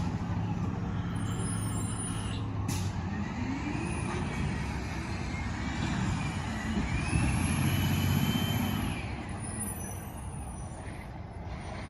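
Side-loader recycling truck's engine running, its pitch and loudness rising and falling over several seconds around the middle, then fading near the end.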